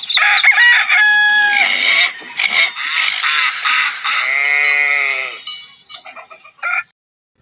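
A rapid string of animal calls, bird and barnyard sounds, one after another, with a longer drawn-out call about four to five seconds in. It stops abruptly near the end.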